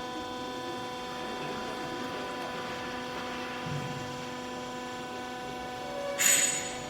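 Hydraulic clothes baler's electric motor and pump running with a steady hum. About six seconds in comes a short, loud, hissing burst.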